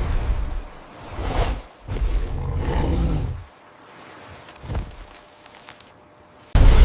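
Deep, rumbling monster roars and growls in several bursts, the longest about a second and a half, starting about two seconds in.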